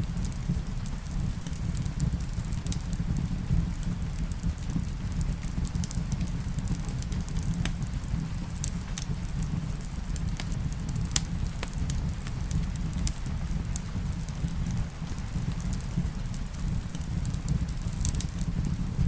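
Wood fire crackling in a fireplace, with scattered sharp pops and snaps over a steady low rumble and falling rain.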